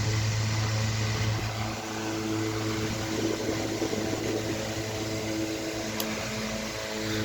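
Antique Century S3-16 16-inch electric fan running and oscillating, with a steady motor hum and the rush of its blades. The hum drops away about two seconds in and comes back near the end. The oscillator linkages are worn, so the head sometimes catches.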